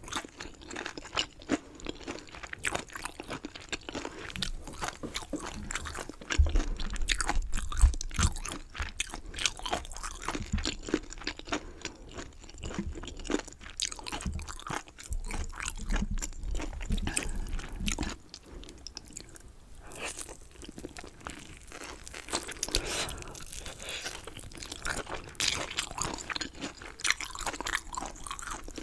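Close-miked crunching and chewing of chicken wings and chicken gizzards, a dense run of irregular crisp bites and chews, with heavier low thuds about six to eight seconds in and again around fifteen to eighteen seconds.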